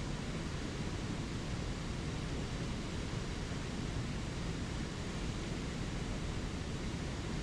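Spring creek water rushing over small waterfalls: a steady, even roar of running water.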